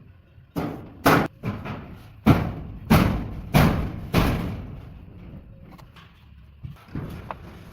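A series of heavy knocks, about seven strikes at uneven intervals over some four seconds, each ringing briefly, followed by a few fainter knocks near the end.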